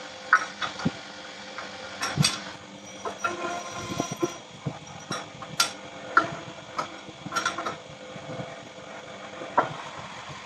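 Machine-shop metalwork at a lathe: irregular sharp clanks and clicks of metal on metal, some ringing briefly, over a steady machine hum.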